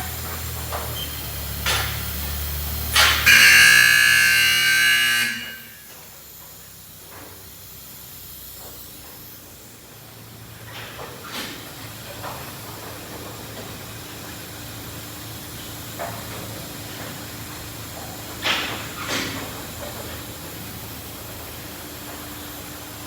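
Automatic car wash equipment spraying and hissing: a loud, hissing blast with a whine in it for about two seconds a few seconds in, then quieter steady spray with a few short hissing spurts.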